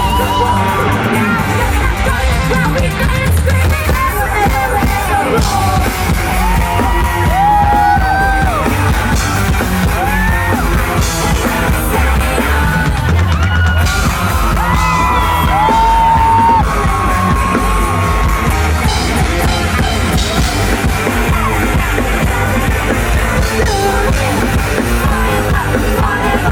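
Pop song played loud over a stage sound system, with a heavy bass beat and sung vocals, and fans yelling and cheering over it.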